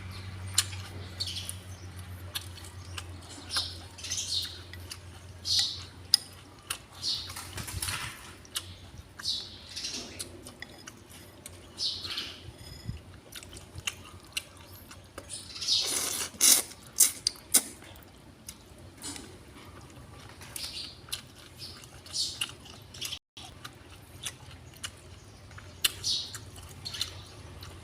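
Short high chirps from a small animal, repeating about once a second, with scattered clicks.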